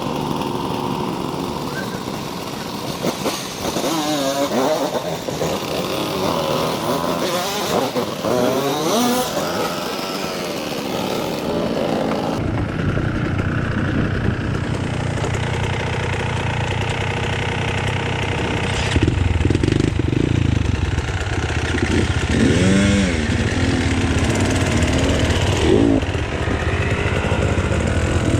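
Off-road motorcycle engine being ridden, its pitch rising and falling repeatedly as the throttle is opened and closed. About twelve seconds in the sound turns deeper, with a heavier low rumble.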